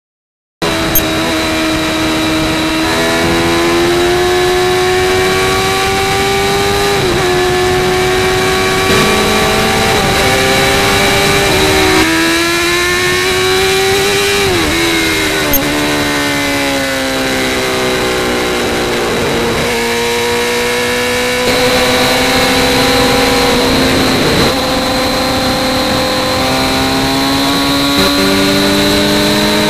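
Suzuki GSX-R 750's inline-four engine heard from the rider's seat. The sound starts about half a second in and pulls hard, its pitch climbing through the revs and dropping suddenly at each upshift. It eases off in the middle, then climbs again.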